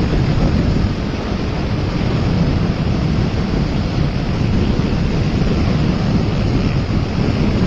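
Wind rushing over the microphone on a motorcycle at highway speed, a steady heavy roar with road and engine rumble underneath.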